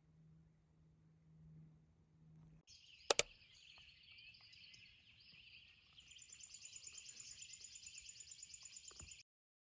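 Outdoor insect chorus: a steady high-pitched buzzing that starts about three seconds in, with a fast even pulsing trill joining halfway through, then stopping just before the end. A low hum runs underneath at first, and there is a sharp double click about three seconds in.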